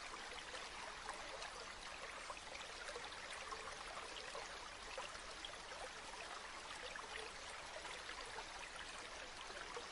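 River water flowing: a steady, faint babble with many small splashes and trickles.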